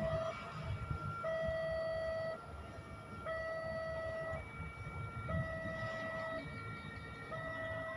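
Level-crossing warning alarm sounding, an electronic two-tone signal that alternates between a lower and a higher note about once a second, warning that a train is approaching. A low rumble runs underneath.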